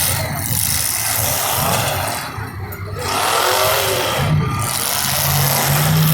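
Several demolition derby cars' engines revving and running hard over a loud, dense din, with the level dipping briefly about two and a half seconds in.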